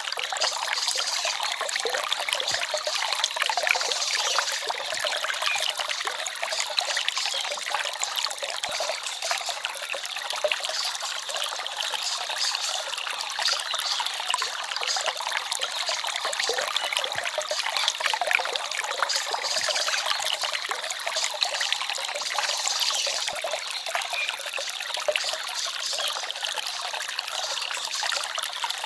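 Small forest stream trickling and babbling steadily over stones, a dense bubbling splash of running water.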